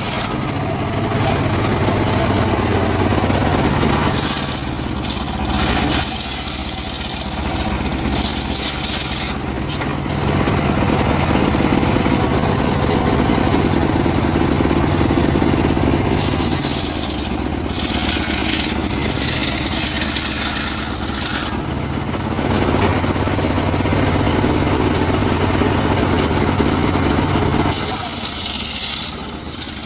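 Engine-powered saw cutting timber: a steady engine note runs throughout, with a rasping cutting noise that swells and fades over stretches of several seconds as the blade works through the wood.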